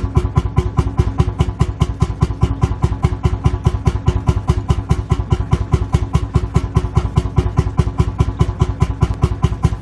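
Lanz Bulldog tractor's single-cylinder two-stroke hot-bulb engine idling, with an even, steady beat of about five strokes a second.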